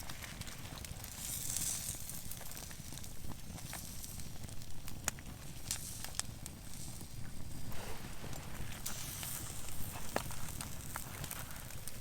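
Small wood campfire crackling, with sparse sharp pops over a low steady rumble.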